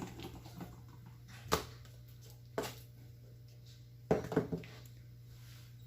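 A few scattered knocks and taps of a kitchen knife and raw chicken breast on a cutting board as the breast is slit open, with a cluster of three near the end, over a steady low hum.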